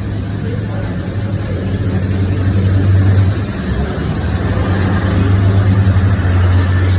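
Diesel train engine running with a steady low drone, its noise swelling slightly midway and again near the end.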